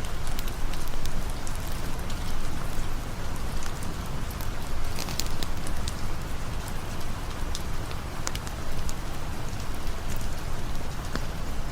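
Steady rain falling, with scattered sharp crackles from a campfire.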